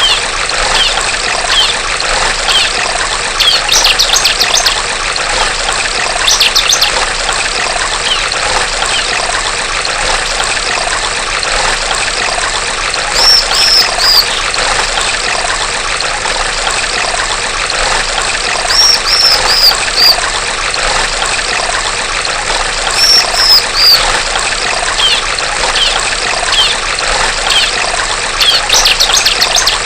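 Stream water trickling steadily, with a female bar-winged prinia calling over it every few seconds: short clusters of three or four high notes and quick trills.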